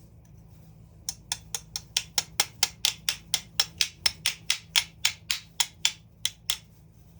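Rapid, evenly spaced hammer taps, about four or five a second, starting about a second in and stopping near the end, seating a trimmed part snugly into place.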